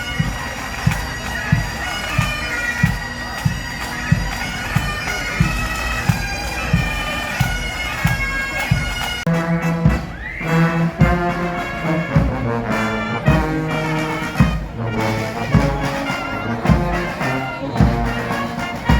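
Pipe band playing: bagpipes sounding a tune over their steady drones, with a regular drum beat. About nine seconds in, the music changes to a different passage with lower, stronger notes.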